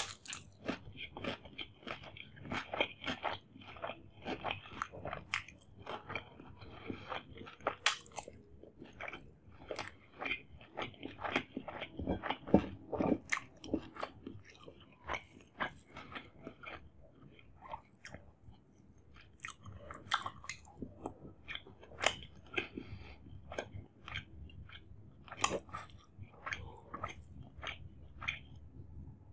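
A person chewing and biting mouthfuls of chicken dum biryani close to the microphone: a continuous run of wet chewing with crunchy bites and sharp mouth clicks.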